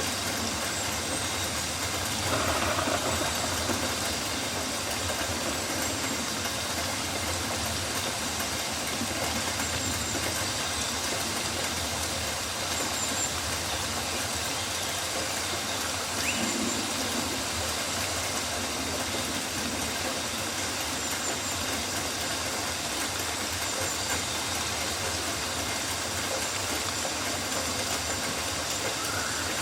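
Steady rain falling on rainforest foliage, with faint short high chirps now and then.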